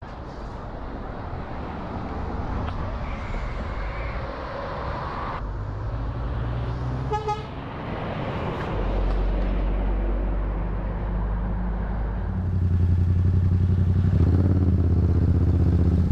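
Motor vehicle road noise as heard from a dashcam: engine and tyre noise, with a short rapid pulsed sound about seven seconds in. A louder, steady low engine hum takes over from about twelve seconds in.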